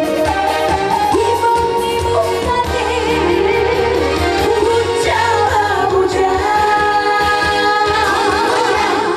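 Female trot vocal sung live over a full band accompaniment, with long held notes in wide vibrato.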